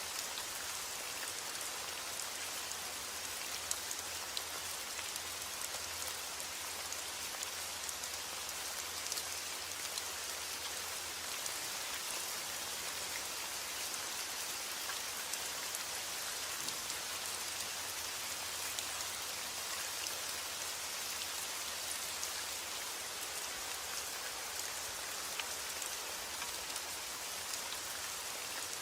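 Steady rain falling on a roof: an even hiss with many small drop ticks through it.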